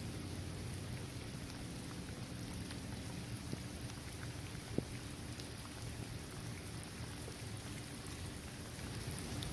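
Steady rain falling on a basketball court, trees and grass, with scattered individual drops pattering and one sharper drop hit a little before halfway.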